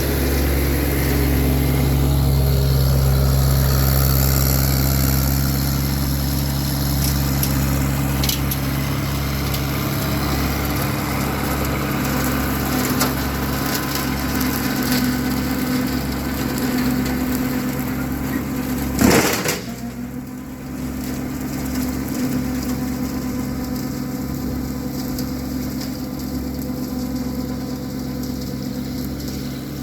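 Massey Ferguson 1725 compact diesel tractor running steadily while it drives a 4-foot rotary brush cutter through brush. About two-thirds of the way in there is one sharp, loud crack, after which the running sound is a little quieter.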